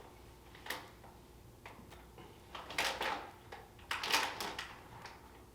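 Plastic snack bags being handled, with a few brief crinkles and rustles, the longest about four seconds in.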